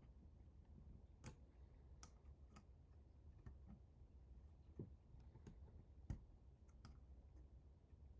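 Faint, scattered clicks and light taps, about eight in all at irregular intervals, over a low steady hum: small parts and hardware being handled during assembly.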